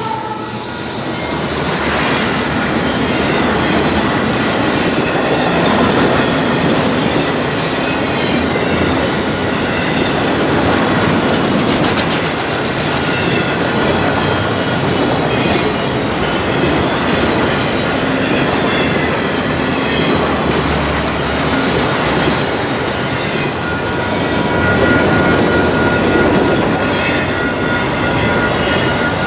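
Railway cars rolling steadily past, the wheels clicking over the rail joints, with a thin wheel squeal coming in near the end.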